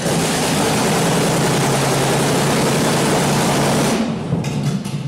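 General Motors 5.7-litre V8 engine of a giant chopper motorcycle running, loud and steady. About four seconds in, the steady note breaks into a run of sharp crackles.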